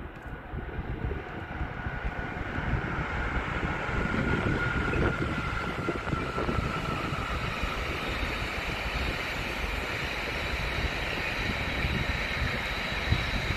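Two Siemens Vectron electric locomotives hauling an intermodal freight train past, building over the first few seconds to a steady rumble of wheels on rail with a faint high whine over it as the container wagons roll by.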